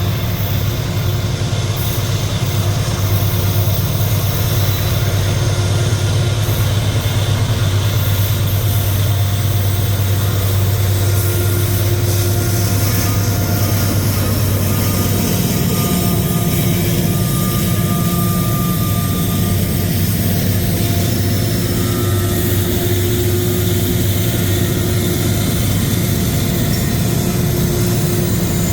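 Freight train's diesel locomotive engines running with a steady low drone, which shifts slightly higher in pitch about halfway through.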